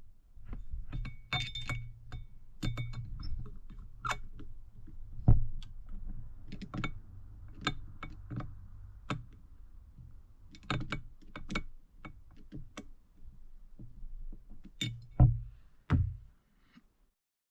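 Small metal carburetor parts being handled on a workbench: repeated clicks, clinks and light taps of metal on metal, with a few heavier knocks as parts are set down, stopping shortly before the end.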